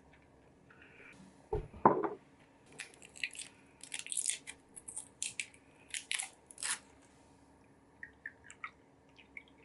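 Close-up eating sounds: a dull thump about two seconds in, then several seconds of crisp, crunchy bites and chewing, and a few light clicks near the end.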